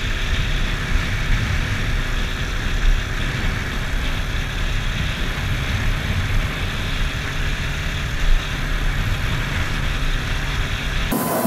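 Motorcycle riding at speed, a steady engine under heavy wind rumble on the microphone; it cuts off suddenly near the end.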